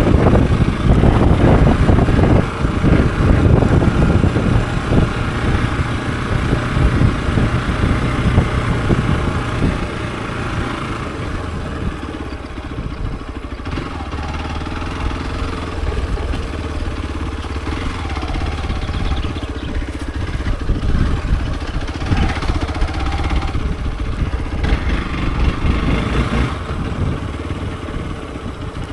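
Hero XPulse 200 4V's single-cylinder engine running, louder for the first ten seconds or so, then quieter and steadier, with small rises later on.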